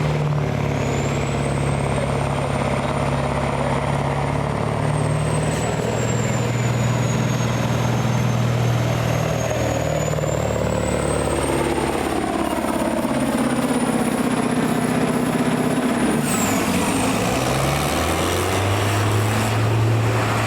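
A truck-and-tractor-pull vehicle's engine running loud, with a thin high whistle above it that rises and falls and drops away about sixteen seconds in.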